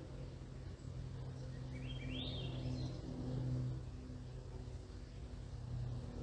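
Steady low drone of an aircraft overhead. About two seconds in, a short bird call sounds: a few quick notes stepping upward.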